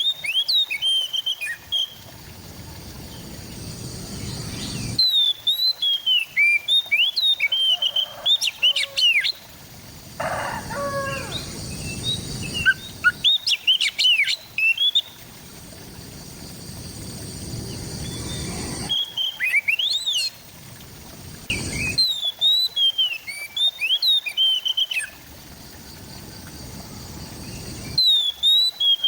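Oriental magpie-robin (kacer) singing: bursts of quick, varied whistled and chirping notes, each a few seconds long, with pauses of a few seconds between them.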